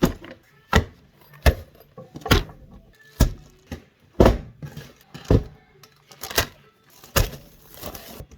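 A series of sharp knocks and clacks, about one a second, from hard household objects being handled and set down.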